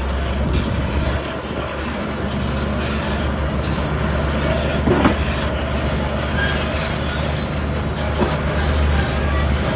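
Heavy diesel construction machinery running steadily under load, with a sharp metallic clank about five seconds in and a lighter one near eight seconds.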